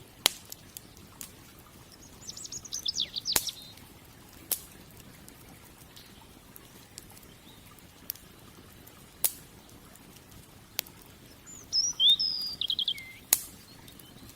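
Wood fire crackling with sharp separate pops every second or few. A small bird sings two short chirping phrases, one early and one near the end.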